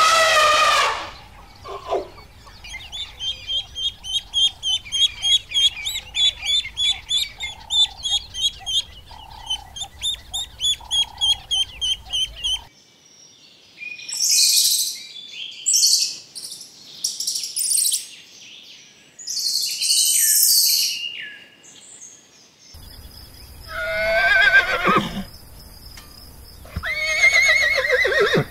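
A run of animal calls: an elephant's trumpet call at the start, then a long rhythmic series of high bird chirps, about three a second. Next come sharp high-pitched chirps from a ground squirrel, and near the end two horse whinnies.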